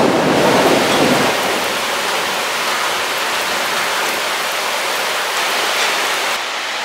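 Heavy rain pouring steadily on trees and a wet street in a thunderstorm, with the tail of a thunder rumble fading away in the first second or so.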